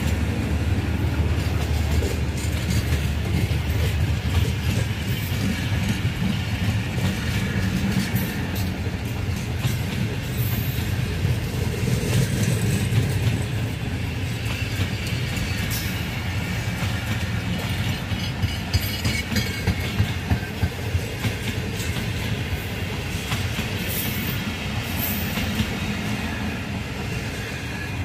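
Passenger coaches of the Tezgam Express rolling past close by, their wheels rumbling and clacking over the rail joints, with a run of sharp, evenly spaced clacks about two-thirds of the way through. The sound eases off near the end as the last coaches draw away.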